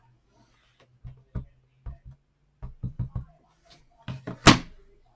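A handheld stamp knocking and tapping on an ink pad and onto card in a run of short, uneven taps, with one sharper knock about four and a half seconds in. The stamp is being test-stamped to check it is not over-inked.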